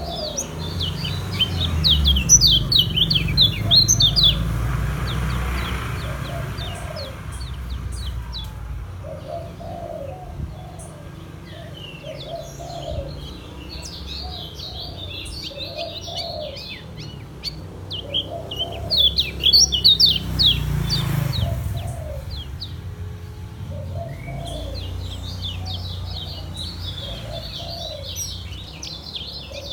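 Kecial kuning (yellow white-eye) singing in fast, high chattering bursts of rapid chirps, the 'ngejos' style, breaking off for a few seconds between runs. Under it, a soft low call repeats about once a second over a low rumble.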